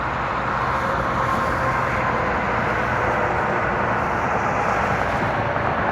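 Steady road and traffic noise, heard while riding along a paved road, swelling slightly in the first couple of seconds.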